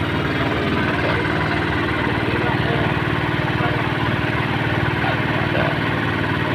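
Small engine running steadily at an even, idle-like pace with a fast, regular pulse.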